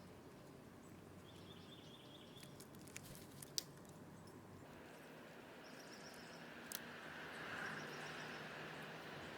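Faint outdoor ambience with short, quick runs of high bird chirps from small birds at a feeder, and a few sharp clicks. The background hiss swells about halfway through.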